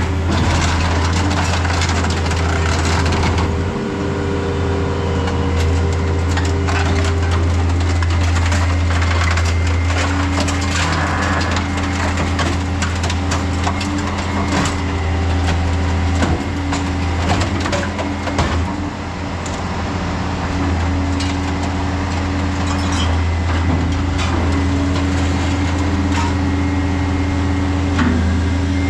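Small alligator shear cutting scrap metal: a steady engine hum runs under repeated cracks and crunches as the blade shears the metal.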